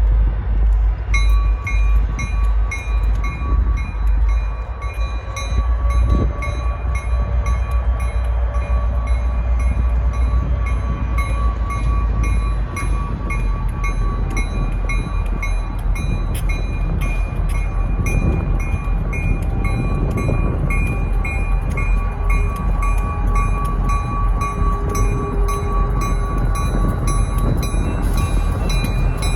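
Two SD40-2F diesel locomotives, each with an EMD 16-cylinder two-stroke engine, running with a heavy low rumble as the ballast train pulls out, while a locomotive bell rings steadily about twice a second.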